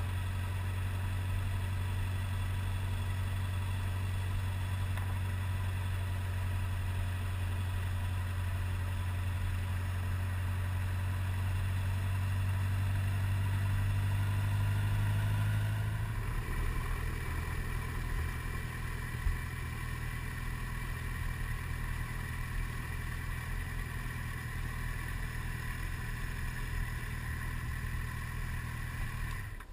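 Motorcycle engine running at a steady drone. Its tone shifts about halfway through, and it cuts off right at the end.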